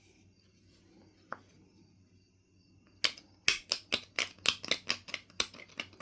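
Knapping work on a piece of Knife River Flint: after a quiet spell, a quick run of about a dozen sharp clicking strokes against the stone, roughly four a second.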